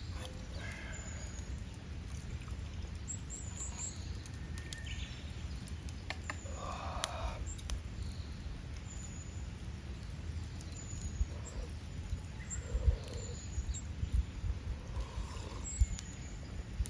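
Small birds chirping now and then in short high calls over a steady low outdoor rumble, with a few faint clicks.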